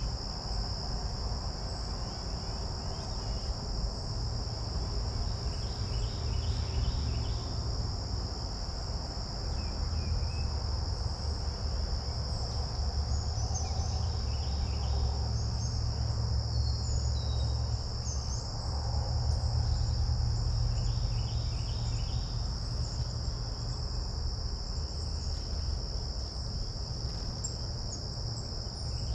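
A steady, unbroken high insect trill from crickets or similar insects, over a low rumble that swells in the middle. Short, scattered bird chirps and brief runs of quick notes come and go.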